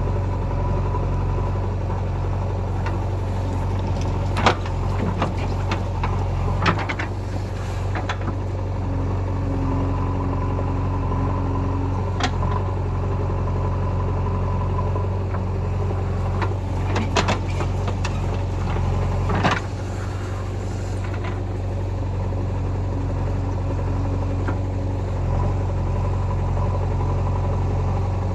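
Heavy diesel engine running steadily, with sharp metallic clanks every few seconds; the loudest is about four and a half seconds in and the last just before twenty seconds. A faint steady whine rises over the engine twice, each time for a few seconds.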